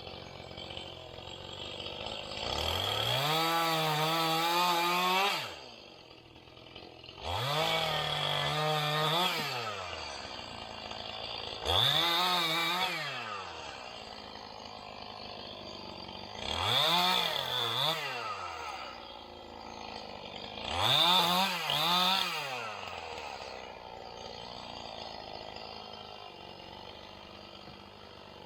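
Two-stroke chainsaw revved up five times, each for two to three seconds, then dropping back to idle. In the last two revs the pitch sags briefly, as if the chain is loaded in a cut.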